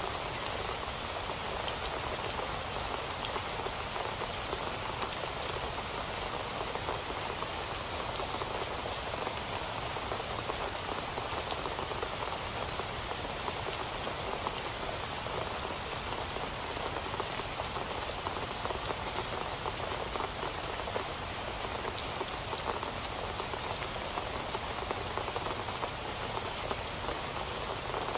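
Steady rain falling, a dense even patter of drops with scattered sharper drop ticks.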